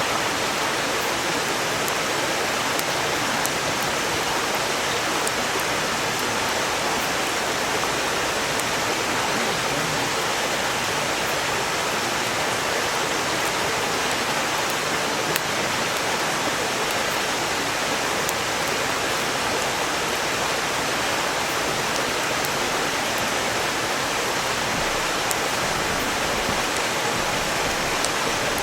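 Mountain stream rushing steadily, with small sharp crackles from a burning firewood campfire scattered through it.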